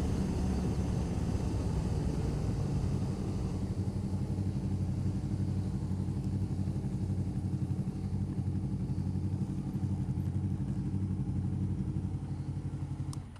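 Motorcycle engine running at a steady cruising speed, its note pulsing evenly, then falling away sharply near the end as the throttle is closed.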